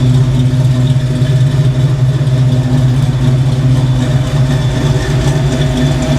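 Ford Fox Body Mustang engine idling steadily and sounding good. Its engine computer has just been reset and is still relearning.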